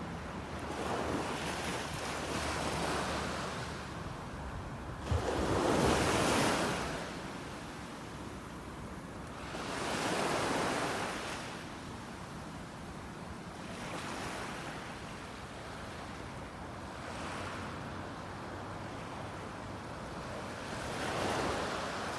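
Ocean surf on a beach. Waves surge in and wash back every few seconds over a steady hiss of water. The loudest one breaks with a sudden crash about five seconds in.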